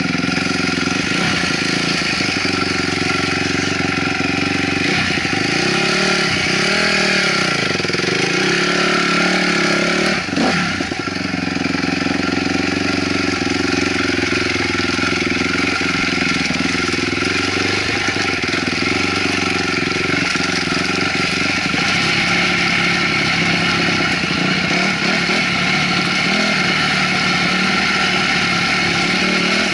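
A 2008 Honda CRF250R dirt bike's single-cylinder four-stroke engine running steadily under way. A few seconds in the engine note swings up and down, and about ten seconds in it drops for a moment before settling back.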